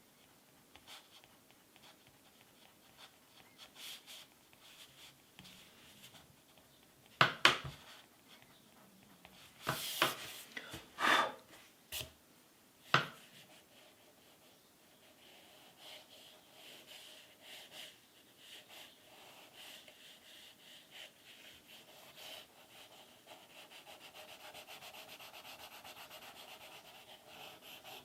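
Pencil or crayon drawing strokes scratching across paper, with a few sharp knocks and clatters about a quarter to halfway through. From about halfway on, the strokes turn into steady, rapid back-and-forth shading.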